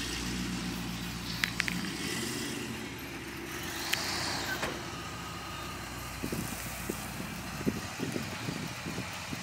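Car engine idling steadily at an even low pitch, with a few sharp clicks over it; the low engine sound drops away near the end.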